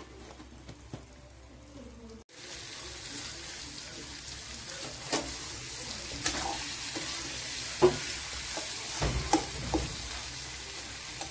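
Pork and colocasia leaves sizzling in gravy in an aluminium pot, starting about two seconds in, with a metal ladle scraping and clinking against the pot as it is stirred.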